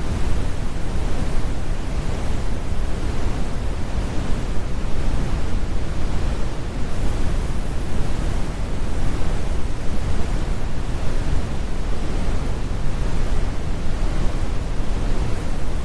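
Steady brown noise: a continuous, even rumble weighted heavily toward the low end, with the highs rolled off and no events or changes.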